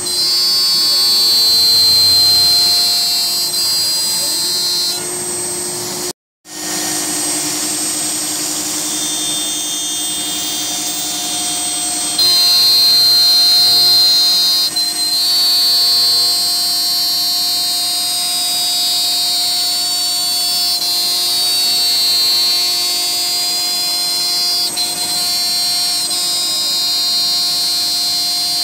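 Home-built CNC router cutting 1-inch HDPE: a steady high spindle whine with lower machine tones as the bit mills the plastic in quarter-inch passes. The sound cuts out completely for a moment about six seconds in, and its pitch and level shift about twelve seconds in as the cut moves on.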